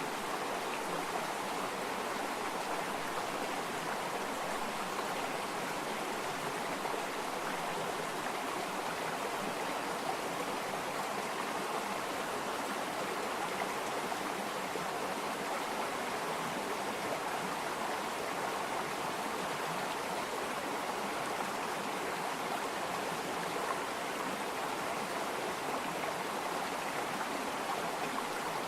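Water flowing steadily over a streambed, an even continuous rushing babble with no change in level.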